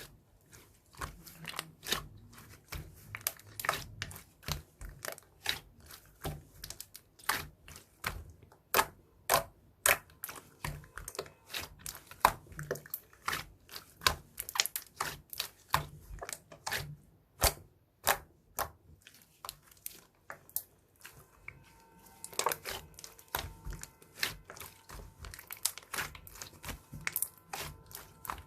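Slime being squeezed, pressed and stretched by hand, giving a run of irregular sharp clicks and pops, one to several a second. Faint steady tones come in behind the clicks in the last several seconds.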